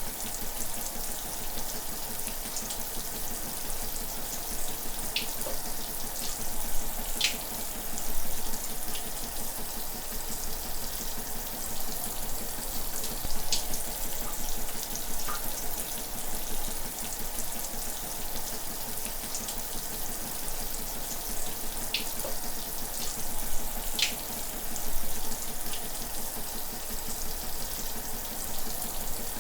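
Shower running steadily, a continuous hiss of water spray with scattered splashing drops.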